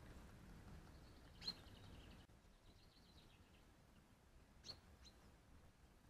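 Faint, short bird calls over a near-silent background: a sharp chirp about a second and a half in, a thin faint twitter after it, and two more quick chirps near the end.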